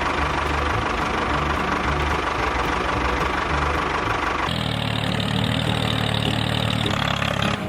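A small engine running steadily; about four and a half seconds in the sound changes abruptly to a deeper, steadier hum.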